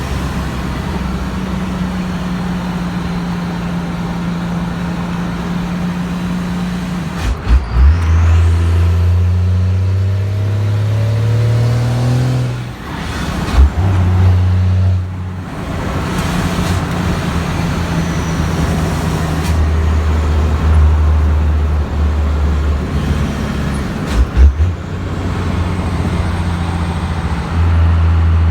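12-valve Cummins 5.9 L inline-six turbo diesel with a downpipe-only exhaust, driving: the engine note climbs steadily as it pulls through a gear, drops away at a shift about halfway through, then runs on steadily, with a couple of short thumps.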